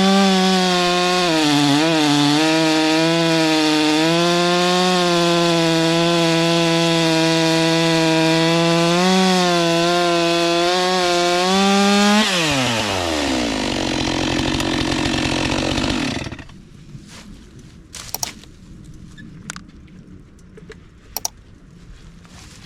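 Stihl MS 462 C two-stroke chainsaw running at full throttle and cutting through a log, its note sagging slightly under load, with a resharpened, rock-damaged chain that still cuts straight. About twelve seconds in, the throttle is released and the engine winds down to idle. It stops a few seconds later, leaving a few faint clicks.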